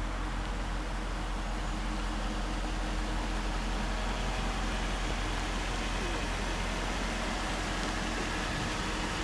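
A vehicle running steadily: an even, unchanging rumble over a constant low hum.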